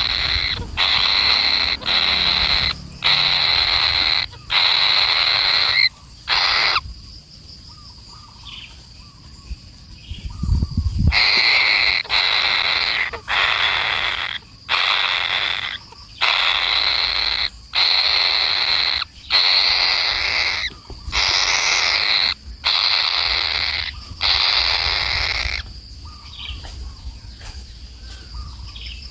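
A bird's harsh, rasping calls repeated over and over, each about a second long with short breaks between, pausing for a few seconds after about seven seconds before starting again.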